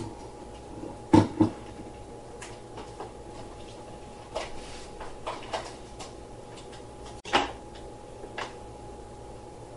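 Scattered knocks and clunks of hard objects being handled: a loud close pair about a second in, a single loud knock past seven seconds, and several lighter taps between, over a faint steady hum.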